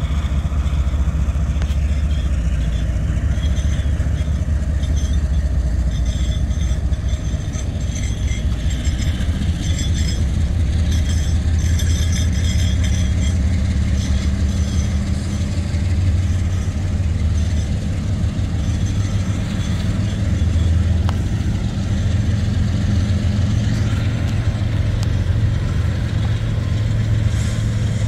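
CSX freight train running past with a steady, loud low rumble of diesel locomotive engines and rolling cars, and faint high-pitched squeals coming and going from about six to fourteen seconds in.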